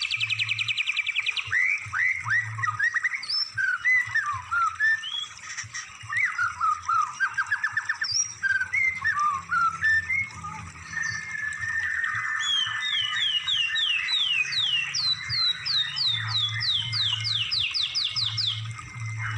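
Songbird song from a masteran tutor recording, the kind played to train cage birds: a quick, varied run of chirps, trills and whistled sweeps. In the second half it turns into a fast series of down-slurred whistled notes, over a low steady hum.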